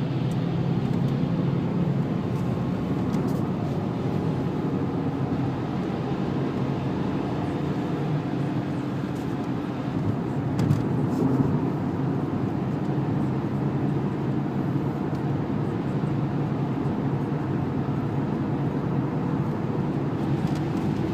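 Inside the cabin of a Renault Laguna wagon with a 2-litre turbo diesel, the engine runs steadily under tyre noise from a wet road surface. A short knock comes about eleven seconds in.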